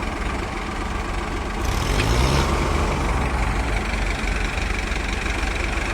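Heavy diesel engine of farm machinery (a tractor or backhoe) running steadily, with a brief rise in revs and a short burst of noise with a click about two seconds in.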